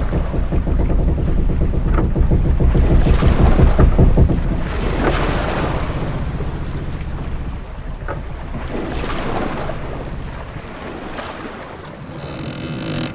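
Sea-going ship ambience: wind and waves washing against the ship, with a deep rumble that is strongest in the first four seconds and then eases off. A few sharp knocks come through, and a short high-pitched creak sounds near the end.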